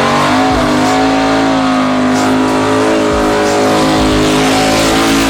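Drag-racing car's engine held at steady high revs, loud, with a brief dip in pitch near the start before it holds level.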